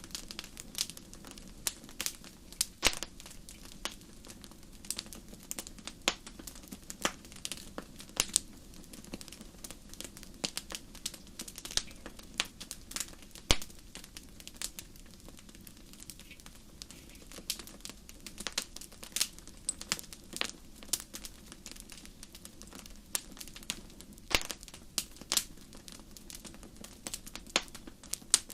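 Wood fire crackling in a fireplace: irregular sharp pops and snaps over a soft steady rumble of the flames.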